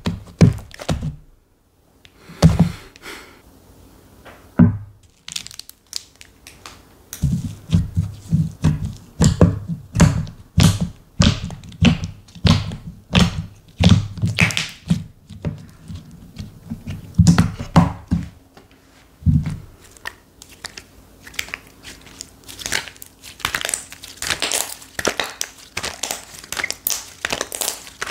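Slime worked by hand, a dense run of sticky pops and clicks. There are dull low squelches through the middle and finer, crisper crackling near the end.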